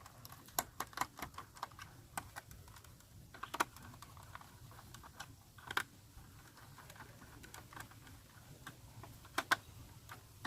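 Small screwdriver tightening screws into a plastic toy school bus, making scattered light clicks and taps of tool on screw and plastic, with a few louder clicks among them.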